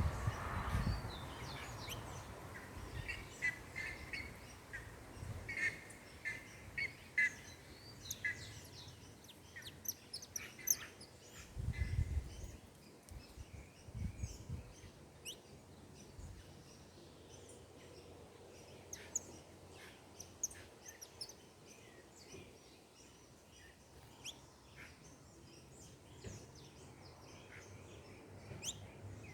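Many small birds chirping and calling at once, short high chirps scattered throughout, with a run of quickly repeated notes in the first several seconds. A few dull low thumps come near the start and about twelve seconds in.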